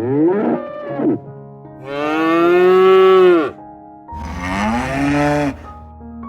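An animal calling three times in long, drawn-out bellowing calls, the middle one the longest, over soft background music.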